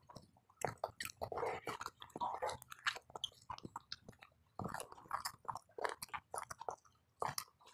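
Close-miked chewing and lip-smacking of a mouthful of food eaten by hand, a run of wet clicks and smacks. It pauses briefly about four seconds in, then starts again with the next bite.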